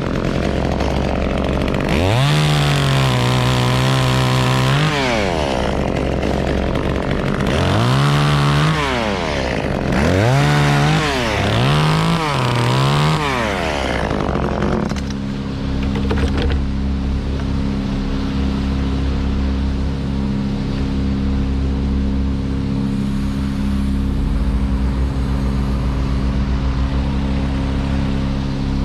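Chainsaw revved up to full throttle, held, and let back down about four times, as if making short cuts. After about fifteen seconds the revving stops and a steady engine drone runs at an even pitch.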